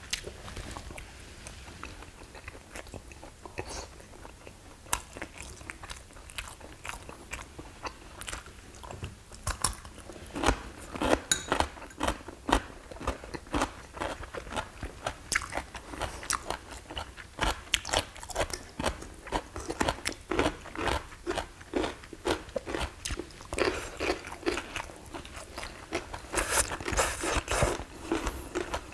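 Chewing and crisp crunching of radish kimchi being bitten and eaten. The crunching is sparse for the first several seconds, then dense and steady from about ten seconds in.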